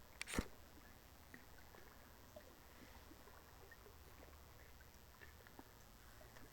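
A single sharp knock about half a second in, then faint scattered small ticks over a quiet outdoor background with a low hum.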